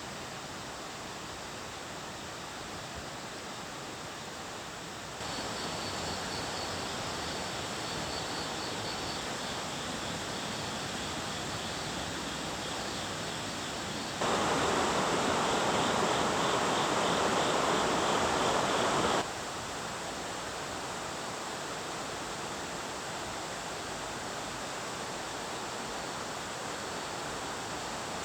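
Steady rush of falling water from a waterfall. It steps louder about five seconds in and louder again for about five seconds near the middle, then drops back.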